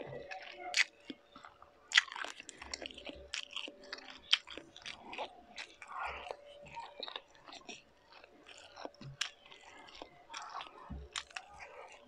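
Close-miked mukbang chewing of a piece of sausage, with many short wet mouth clicks and smacks, the loudest about two seconds in.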